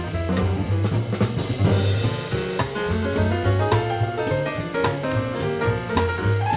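Live jazz piano playing with drum kit and a stepping bass line, heard from a cassette tape recording of an FM radio broadcast.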